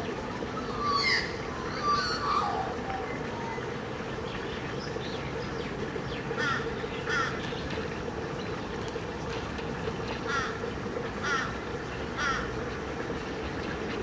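Wetland birds calling: a cluster of varied calls about a second in, then five short, harsh calls spaced out over the second half. A steady low hum runs underneath.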